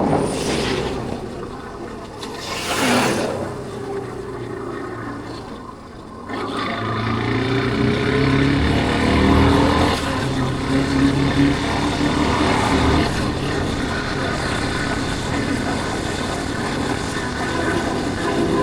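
Single-cylinder engine of a Yamaha Factor 150 motorcycle on the road, with two rushing whooshes in the first few seconds. The engine eases off and goes quiet for a moment, then pulls away with its pitch rising and settles into steady cruising.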